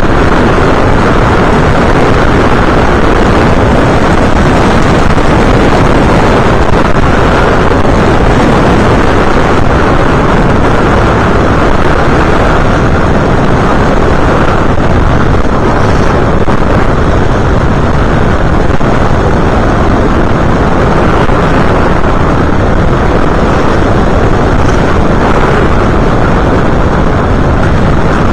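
Loud, steady rushing noise of airflow and motor on the onboard camera's microphone of an FPV model aircraft in flight, with no distinct events.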